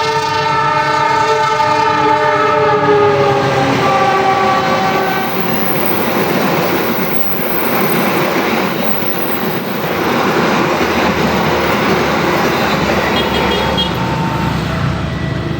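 A train horn sounds for about five seconds, its pitch dropping as it fades, then the train's cars rush past with a loud, steady rumble.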